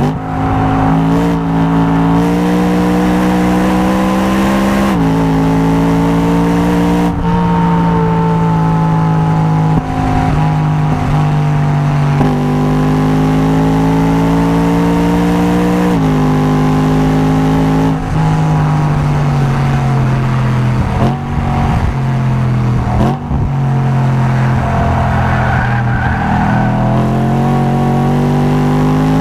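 Car engine at full throttle on a circuit. The pitch climbs steadily as it pulls through each gear and drops sharply at each gear change, several times over.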